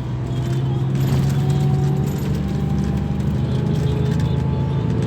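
Scania K340 bus's diesel engine running, its pitch and level rising slightly over the first second and then holding steady.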